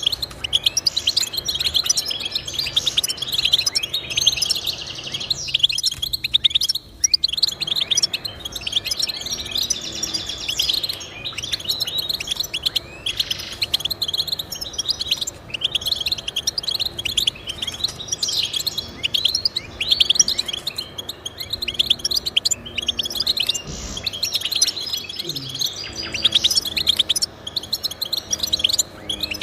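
Goldfinch singing: a long, fast run of twittering, chirping notes that keeps going with hardly a pause.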